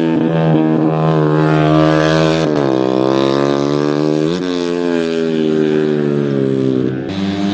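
Motocross motorcycle engine running at high revs, its note mostly steady, climbing sharply twice around the middle and dipping briefly near the end.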